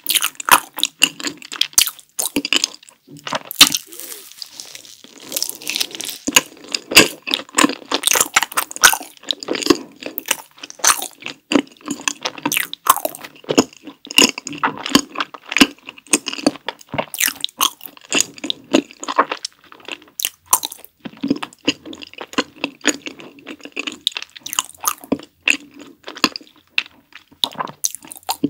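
Close-miked chewing of a green tea rice cake with a chocolate filling: a dense, irregular run of sticky, wet mouth clicks and small crunches.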